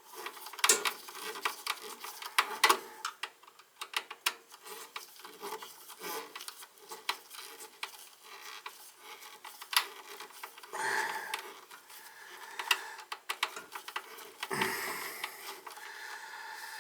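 Hand work on furnace wiring and small tools: irregular clicks, taps and scraping, with no steady machine running.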